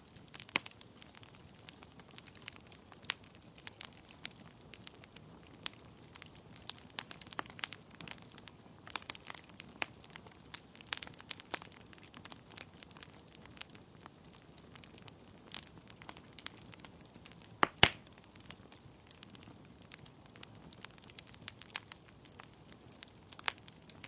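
Wood fire in a fireplace crackling: burning logs giving irregular sharp pops and snaps over a low steady hiss, with one louder pop about two-thirds of the way in.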